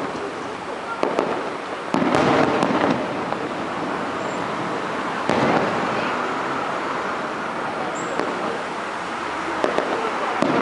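Aerial fireworks bursting, with two louder bangs about two and five seconds in, each trailing off, and scattered crackling pops near the start and end.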